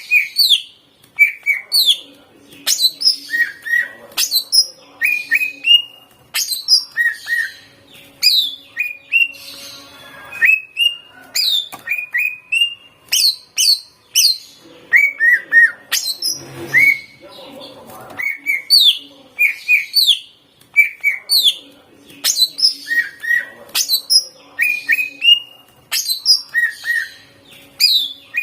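Green leafbird (cucak ijo) singing loudly in short, rapid phrases of sharp, sweeping whistled notes, one phrase every second or so. The song is packed with mimicked notes. There is a short break a little past halfway.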